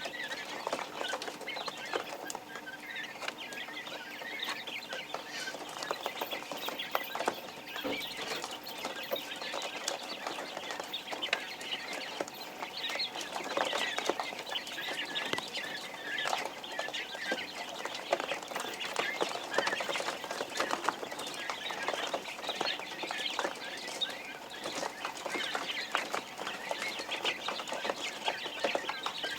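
Newborn quail chicks peeping continuously, many short high chirps overlapping from a brood of chicks.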